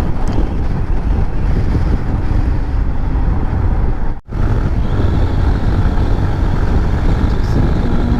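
Wind buffeting the microphone over motorcycle engine and road noise while riding, a steady loud low rumble. It drops out briefly about four seconds in.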